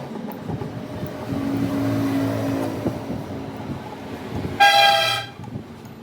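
A vehicle running with a low, steady hum, then one short horn beep about four and a half seconds in.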